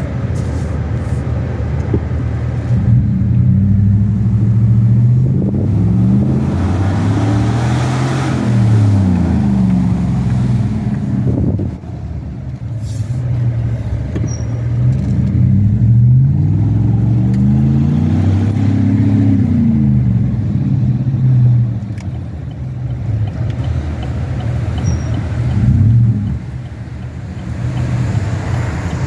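Truck engine running under way, its pitch climbing and dropping again several times as it accelerates and changes gear.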